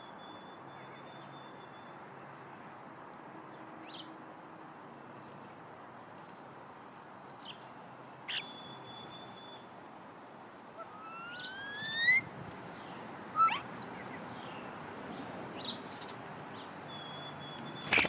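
Songbirds calling: thin held whistles, short sharp chirps, and a pair of rising whistled slurs about two-thirds through, the loudest calls, over a faint steady background hum.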